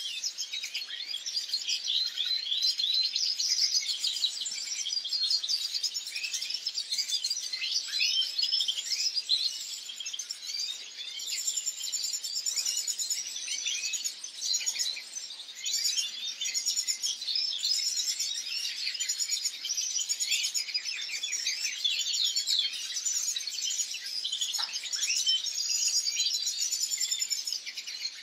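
European goldfinch song: a continuous, rapid, liquid twittering with no breaks.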